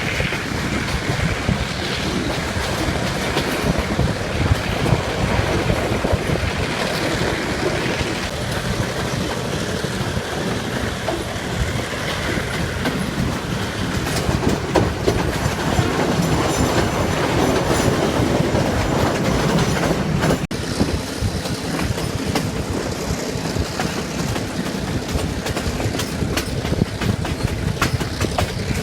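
Passenger train running along the track: a steady rumble with the clickety-clack of wheels passing over rail joints.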